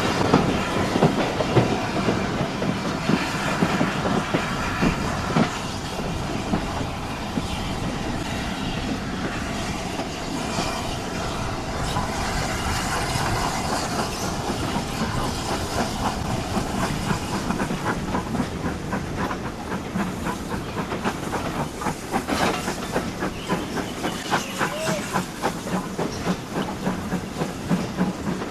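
Train running on the rails: a steady rumble and hiss with steam, joined in the second half by a run of regular clicks from the wheels and rail joints.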